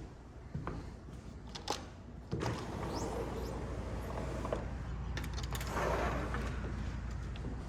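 A few light clicks and knocks, then about two and a half seconds in a door opens onto steady low outdoor street rumble, which runs on.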